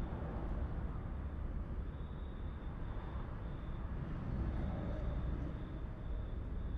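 Night ambience recording: a steady low rumble with a faint high-pitched trill that comes and goes.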